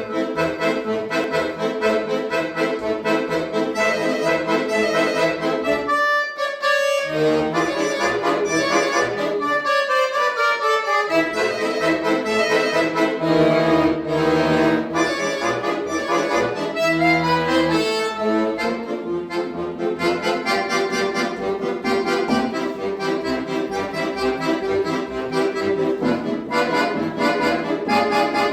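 Accordion duet playing a tune, with runs of notes sliding down in pitch about eight to eleven seconds in.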